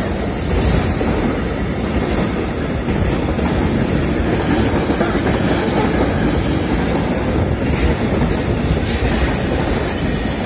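Container freight train's loaded flat wagons rolling past close by at a steady speed: a continuous low rumble of steel wheels on the rails.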